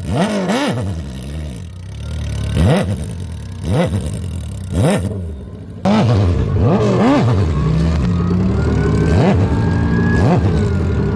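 Lifted Mazda Miata's stock four-cylinder engine revving hard in the sand, in repeated rising-and-falling surges. About six seconds in, the sound jumps abruptly louder and the engine runs on at higher revs with a few more surges.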